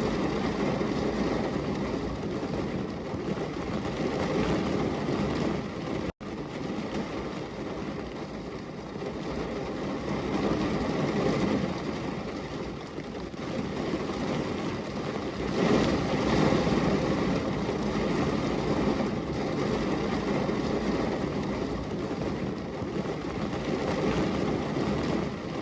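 Steady rainfall, a dense even hiss with slow swells and a rumbly low end, broken by a momentary dropout about six seconds in.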